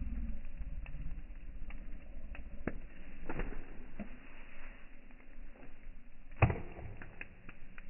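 Bonfire crackling: scattered sharp pops and snaps over a low rumble, with one loud pop about six and a half seconds in.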